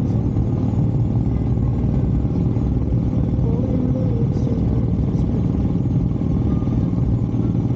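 Harley-Davidson motorcycle engine running steadily while riding at an even speed.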